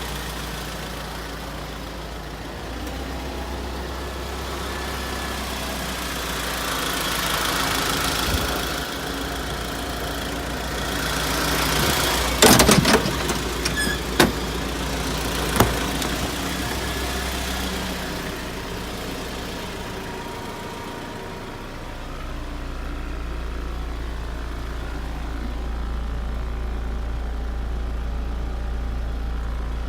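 Isuzu Elf truck engine idling steadily, swelling briefly twice in the first half. A cluster of sharp knocks comes about twelve seconds in, and two more single knocks follow over the next few seconds.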